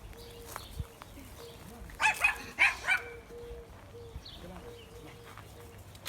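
A dog barking: a quick run of about four barks, about two seconds in.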